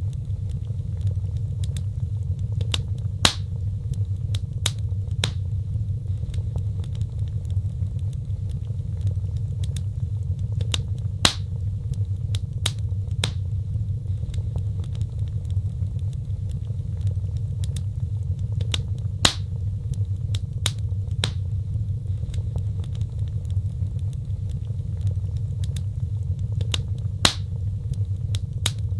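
Wood fire burning with a steady low roar and sharp crackling pops every second or two, the loudest pops coming about every eight seconds.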